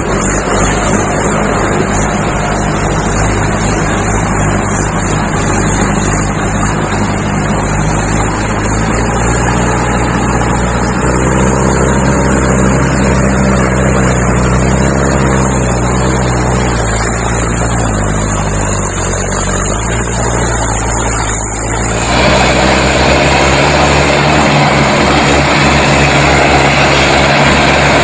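Mahindra 585 XP Plus DI tractor's four-cylinder diesel engine running under load while hauling a fully loaded trolley, its pitch rising and falling with engine speed about halfway through. The sound changes abruptly near the end and is louder after that.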